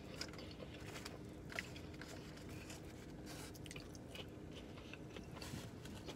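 Faint close-up chewing and crunching of crispy fried fast food, with scattered small crackles and mouth clicks.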